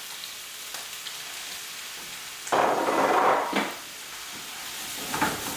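Finely chopped onion sizzling in hot coconut oil and butter in a frying pan. A steady hiss swells suddenly into a loud, dense crackle about halfway through for around a second, then settles back to the hiss.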